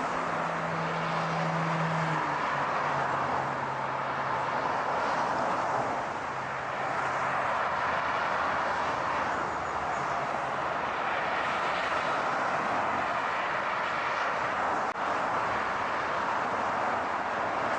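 Car driving along: a steady rush of road noise, with a low engine hum that drops in pitch a couple of seconds in and fades out about ten seconds in.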